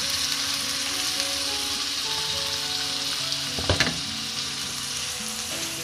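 Raw boneless chicken pieces sizzling steadily as they go into hot oil and fried onion paste in a non-stick frying pan. A brief knock comes about two-thirds of the way through.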